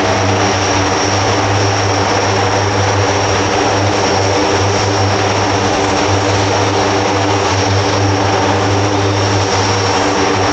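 Blue Angels C-130J Hercules 'Fat Albert', its four turboprop engines and propellers running with a steady low hum and a steady high whine above it.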